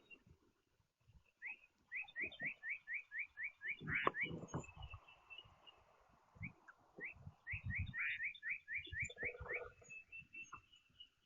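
A songbird whistling runs of quick, rising, slurred notes, about five a second, in two bursts. Scattered low thuds and knocks come in between, the loudest about four seconds in.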